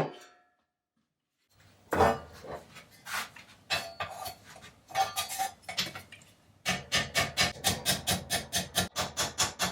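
Metal clanks and knocks from hand work on the pressed-steel parts of a toy truck, then from about two-thirds of the way in a fast, even run of sharp strikes, roughly three a second.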